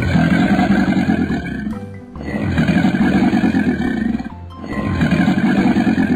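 Crocodile sound effect: three long, rough growling calls, each about two seconds, with short breaks between them, over background music.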